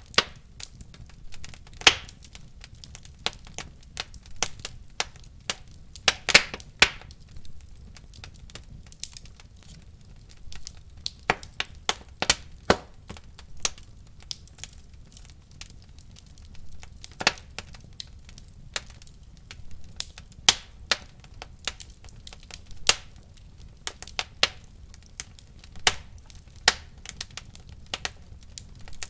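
Wood fire in a fireplace crackling: irregular sharp pops and snaps of varying strength over a low steady rumble of the flames.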